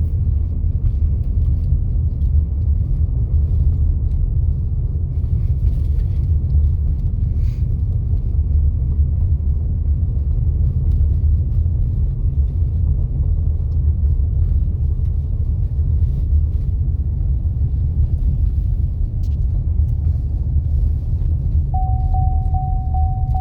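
Steady low rumble of a vehicle driving along a dirt road, heard from inside the cabin. A steady high tone starts near the end.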